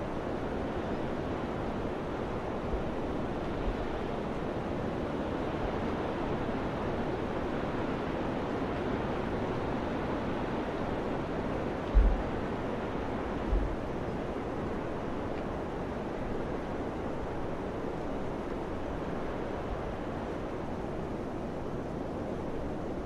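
Steady summer wind blowing, an even rushing noise, with two brief low buffets of wind on the microphone about halfway through.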